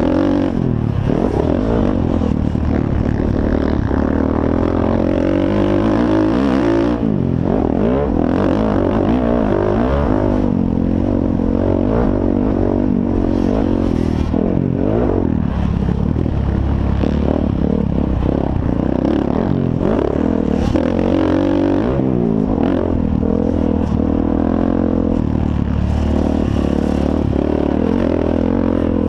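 Motocross dirt bike engines racing, revving up and down through the gears so the pitch rises and falls over and over, at times with more than one bike heard at once.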